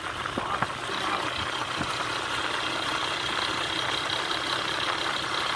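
An engine running steadily, with a few light knocks in the first two seconds.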